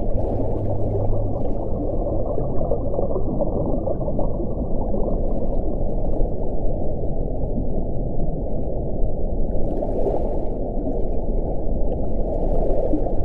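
Wind blowing steadily with a low, deep rush. Fainter airy gusts swell briefly about ten seconds in and again near the end.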